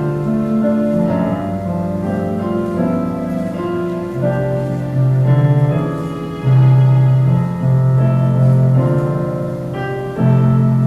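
Keyboard instrument playing slow music in held chords, the notes changing about once a second.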